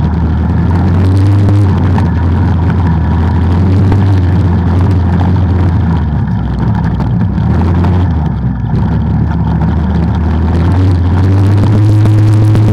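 Off-road vehicle engine running under varying throttle, a loud steady drone. It eases off and drops in pitch around the middle, then picks up again near the end.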